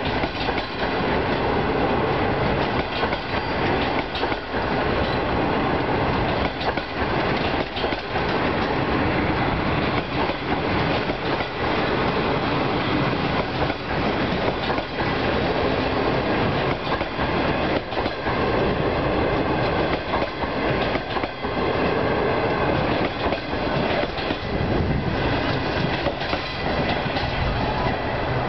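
Passenger train coaches passing close by, their wheels clattering on the rails in a steady, continuous rumble; the last coach goes by near the end.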